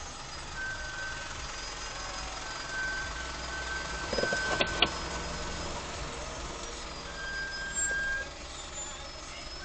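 Car engine idling in stopped traffic, heard from inside the cabin as a steady low hum. A high beeping tone comes and goes several times, and a short, sharp louder sound with two clicks comes about halfway through.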